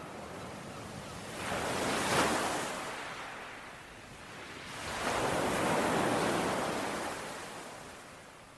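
Ocean surf: two waves break and wash in, one about two seconds in and a longer one around the middle, each swelling and then fading away.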